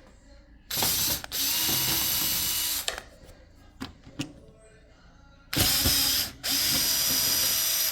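Electric screwdriver running in short bursts to back out case fan screws: two runs about a second in and two more about five and a half seconds in, each lasting up to a second and a half.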